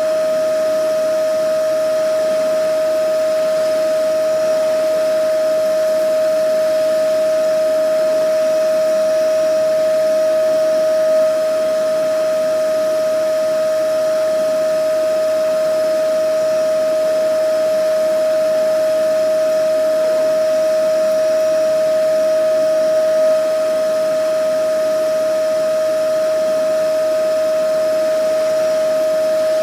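Vacuum cleaner running continuously at a steady speed: a constant high motor whine over an even rush of air.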